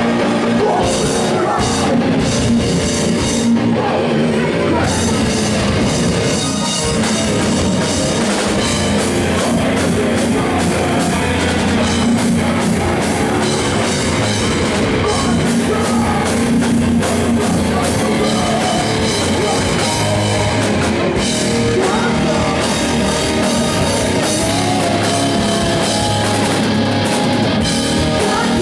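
Five-piece post-hardcore band playing live, loud and dense with a drum kit driving it.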